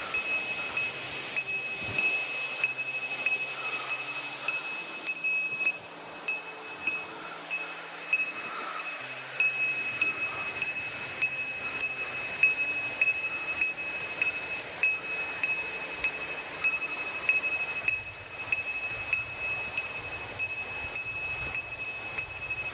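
A small metal bell jingling in a steady rhythm, struck about one and a half times a second at a walking pace, with its ringing tones carrying on between strikes.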